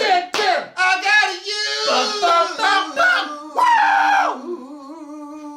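Several voices singing different songs at once, unaccompanied and overlapping loudly, ending on one long held note.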